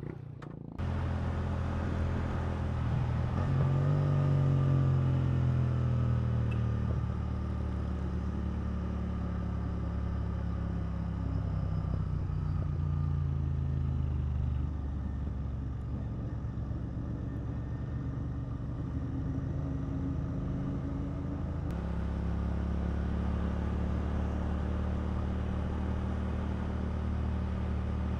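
Motorcycle engine running under way, with wind noise. The engine note rises around four seconds in, then holds steady, with sudden steps in the note about halfway through and again later, as the bike settles toward cruising speed.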